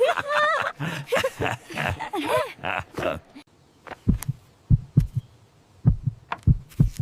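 A voice making bending, pitched sounds for the first few seconds, then a run of about eight short, low, dull thumps at an uneven pace.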